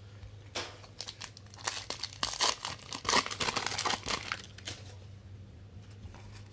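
A trading card pack's wrapper crinkling and tearing as it is ripped open, a dense flurry of rustles that stops about five seconds in.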